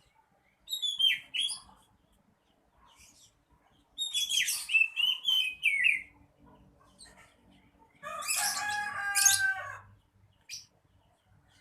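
Oriental magpie-robin (kacer) singing in three short bursts: a brief whistled phrase about a second in, a longer warbling phrase in the middle, and a lower, harsher phrase near the end.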